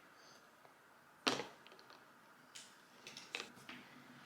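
A small plastic doll being handled over a bowl of ice water: one sharp knock about a second in, then a few faint clicks.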